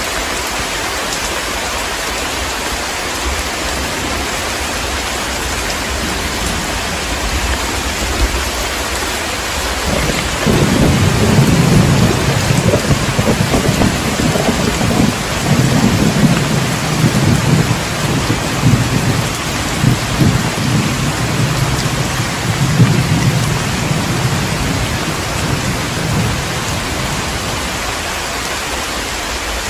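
Heavy rain falling steadily, with a long roll of thunder that starts about a third of the way in, rumbles unevenly for around fifteen seconds and dies away.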